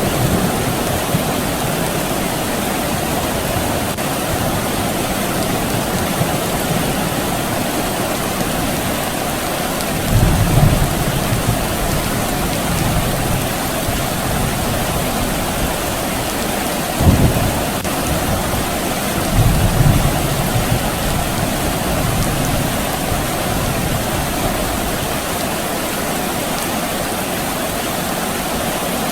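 Steady soft rain falling, with low rumbles of distant thunder about ten seconds in, again around seventeen seconds, and once more near twenty seconds.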